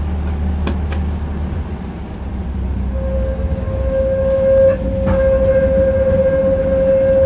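Tram running on its rails, heard from inside the car: a steady low rumble with a couple of knocks from the track, and a steady whine setting in about three seconds in.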